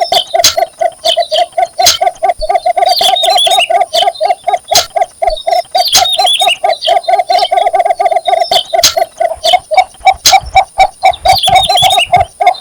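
Cinnamon bittern giving its courtship advertising call: a steady, fast series of low, even notes, about five or six a second. Another bird chirps high above it a few times.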